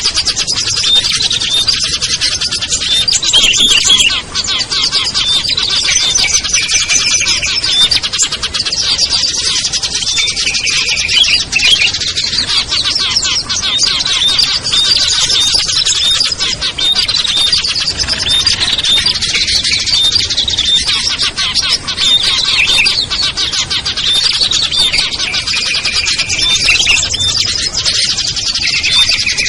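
Dense chorus of many small songbirds chirping and trilling at once, high overlapping calls without a break.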